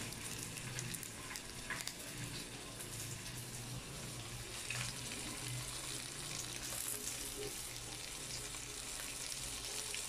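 Crabs sautéing in a frying pan over a gas stove, a steady crackling sizzle.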